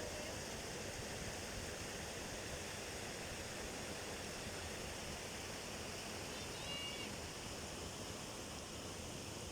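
Hot-water river flowing, a steady rush of water. A brief high chirp comes about seven seconds in.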